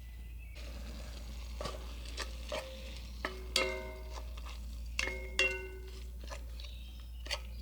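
Kitchenware being handled: a series of clicks and knocks, three of them ringing on with a clear tone for a moment, like a hard dish or jar struck lightly.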